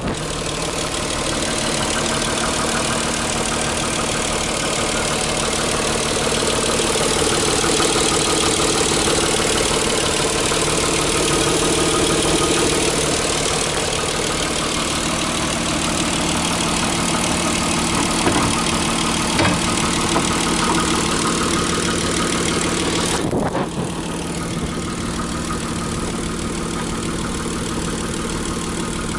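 Nissan 300ZX Twin Turbo's 3.0-litre twin-turbo V6 (VG30DETT) idling steadily, heard close up at the open engine bay, with a few light clicks about two-thirds of the way through.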